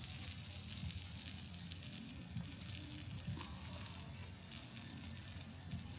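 Sausages and meat sizzling on a grill over a campfire: a faint, steady high hiss with scattered small crackles.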